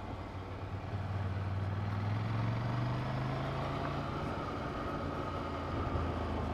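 Ducati Monster 797's air-cooled L-twin engine running under way, its pitch rising slightly over the first couple of seconds and then holding steady.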